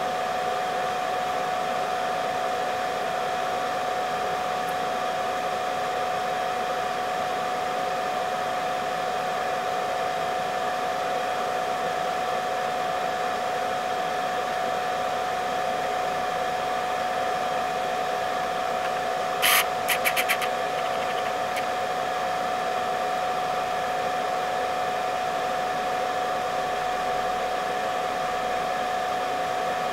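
Hot-air blower of a rework station running steadily: an even rush of air with a steady whine. A brief cluster of four or five sharp clicks comes about two-thirds of the way through.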